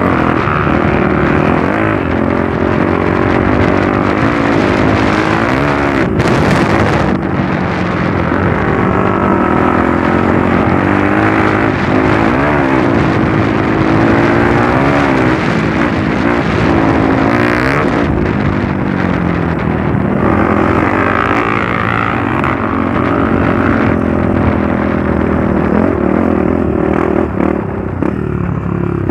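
Trail motorcycle engine running under load, its pitch rising and falling again and again as the throttle is opened and closed.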